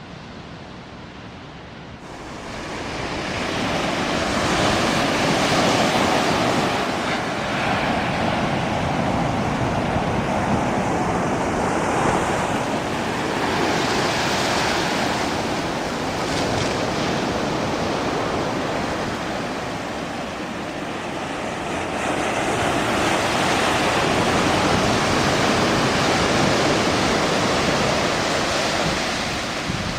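Ocean surf washing onto a beach, swelling up about two seconds in and then rising and falling in long surges, with some wind on the microphone.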